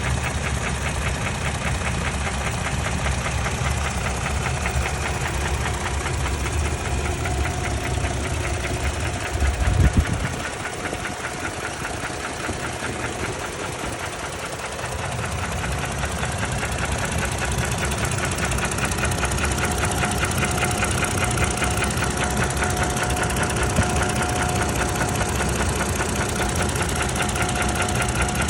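A 2017 Toyota Tacoma's 2GR-FKS 3.5-litre V6 running with a fast, steady knocking, which the owner takes for not normal. A loud thump about ten seconds in, after which the low rumble is weaker for a few seconds before coming back.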